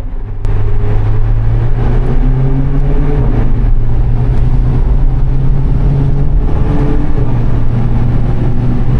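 Renault Mégane RS Trophy's 1.8-litre turbocharged four-cylinder, sport exhaust valves open, pulling under acceleration with a slowly rising engine note that comes in loudly about half a second in. The engine is not taken all the way to the redline.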